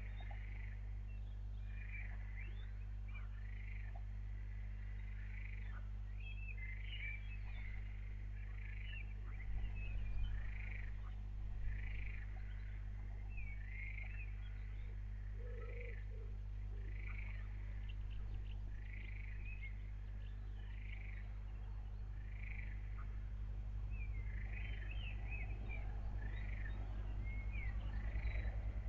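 Small animal calls, likely frogs, repeating a little more often than once a second over a steady low hum, with two brief low bumps about a third of the way in.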